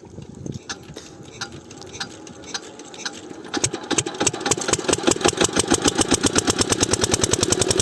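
Diesel water-pump engine starting: slow, spaced knocks that speed up about three and a half seconds in and settle into a fast, steady, louder beat as it runs up to speed.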